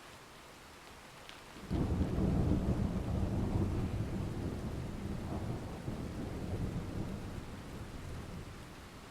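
Steady rain, with a thunderclap breaking in suddenly about two seconds in as a loud low rumble that slowly fades away.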